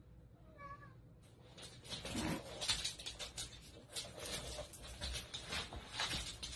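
A cat gives one short, faint meow, then a run of irregular rustling and scratching noises follows to near the end.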